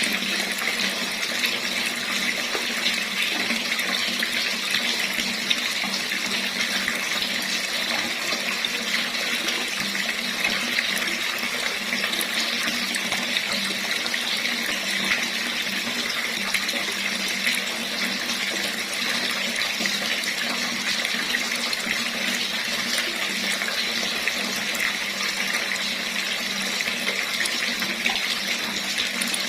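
Tap running steadily, water splashing into a basin in an even, unbroken rush.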